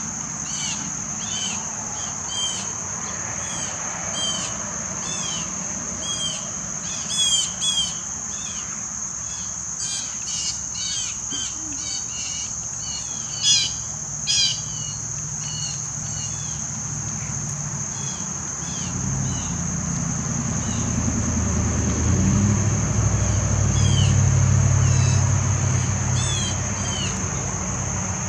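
A steady, high-pitched insect drone, like crickets, under repeated short bird chirps, with a few louder, harsher bird calls about seven and thirteen seconds in. In the second half a low engine rumble swells up and fades, like a vehicle passing.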